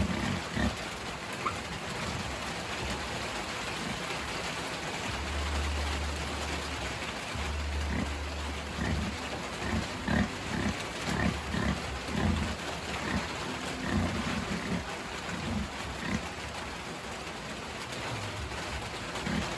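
A sow grunting: a run of short low grunts, about two or three a second, through the middle, over a steady hiss.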